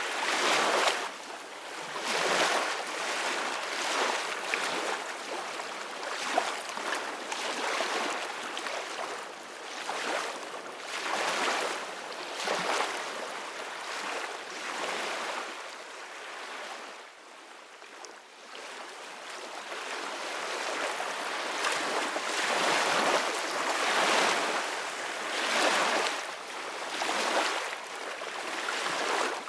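Ocean surf washing in and receding, a steady hiss that swells and falls every second or two, easing off around the middle and building again toward the end.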